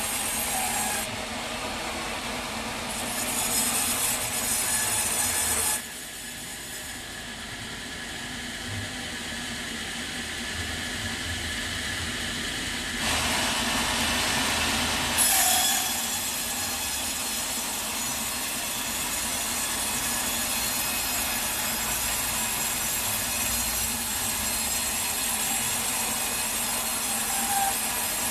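Sawmill blade cutting through a teak log: a continuous hissing rasp that drops in level about six seconds in and rises again about seven seconds later.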